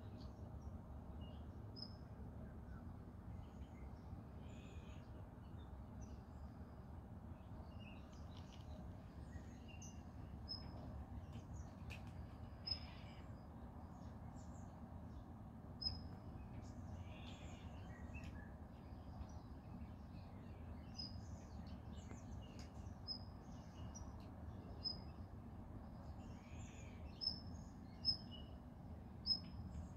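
Faint outdoor ambience of small birds chirping, short high calls repeating again and again, over a steady low rumble. A few sharp clicks stand out in the second half.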